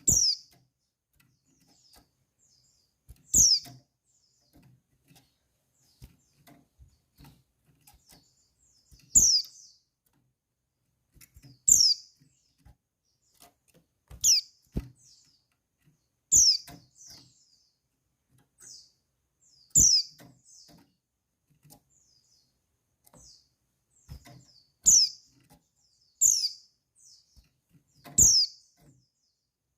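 Female white-eye (pleci) calling: short, high calls that drop in pitch, repeated every two to three seconds, with fainter chirps in between.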